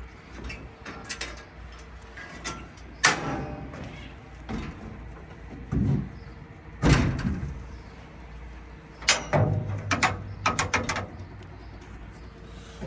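Metal knocks and clanks from a combine harvester's access doors or panels being handled: single sharp bangs about three, six and seven seconds in, then a quick run of clanks near the end.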